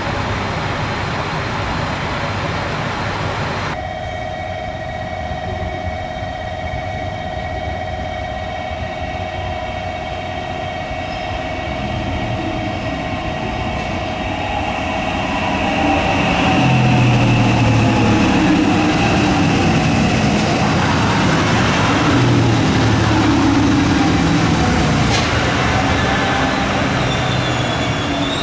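A train running on the rails near a station. A steady whine sounds at first, then the rolling rumble grows louder about halfway through, and thin wheel squeal comes in near the end.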